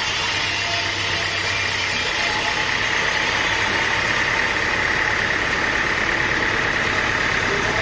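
Engine-driven sawmill running steadily, a constant machine noise with no break or change in level.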